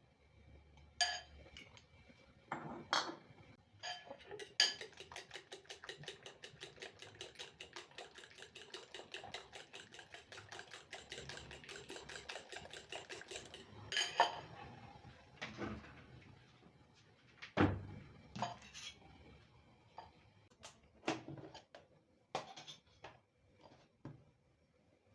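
Kitchenware clinking and knocking: a utensil striking against a dish in fast, even strokes for about nine seconds, with scattered knocks and clinks of dishes before and after.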